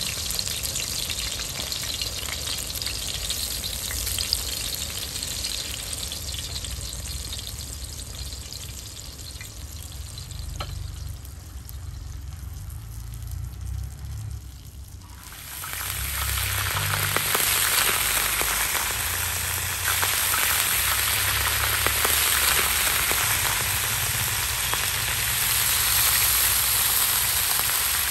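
Chicken chapli kababs shallow-frying in hot oil in a wide iron pan, sizzling steadily. The sizzle turns louder about halfway through.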